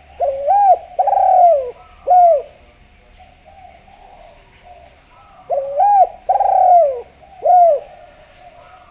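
Spotted dove (Javan derkuku) cooing: two three-note phrases about five seconds apart, each with a short first coo, a longer falling middle coo and a short final note.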